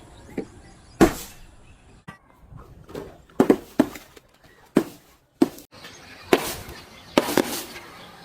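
Objects being crushed and broken: a series of about nine sharp cracks and crunches at irregular intervals, some followed by a brief crackling tail.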